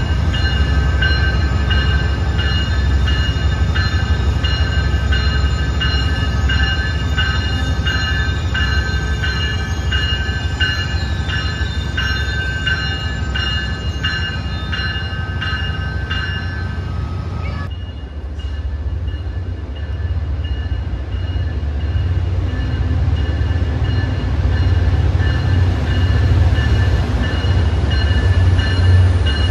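A train creeping into a covered station platform: steady high-pitched wheel squeal and a run of clicks from the wheels over a low rumble. About two-thirds of the way through the sound cuts to a deep, steady train rumble that grows louder, with a thin high whine falling away near the end.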